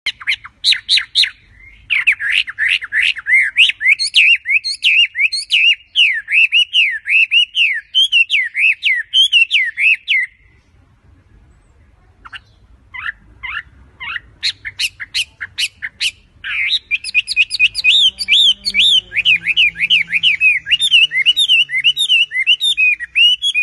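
A wambi bird singing in long, loud phrases of fast, rapidly repeated up-and-down warbled notes, each opened by a short string of sharp clicking strokes, with a pause of about two seconds midway.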